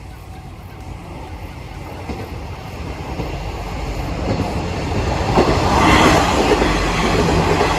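Train running through a railroad crossing, its rumble and wheel noise growing steadily louder to a peak about six seconds in.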